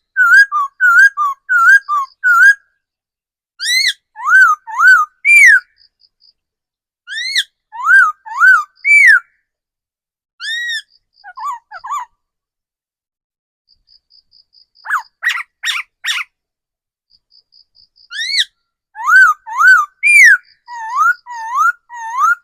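Laughingthrush singing loud whistled phrases, each a quick run of rising-and-falling notes, with short pauses between phrases. About fifteen seconds in there is a harsher, rasping burst, and faint rapid ticking notes sit in some of the pauses.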